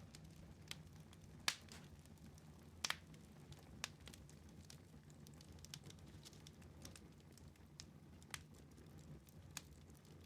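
Wood fire crackling in a fireplace: scattered sharp pops and snaps, the loudest about a second and a half in and just before three seconds, over a faint low steady hum.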